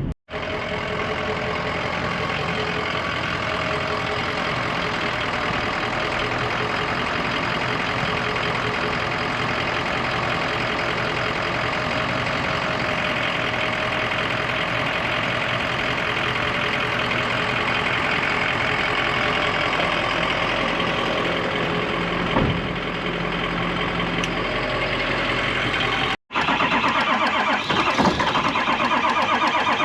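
2003 Ford F550's 6.0 Power Stroke V8 turbodiesel running steadily. The sound cuts out briefly just after the start and again about 26 seconds in, and is a little louder after the second break.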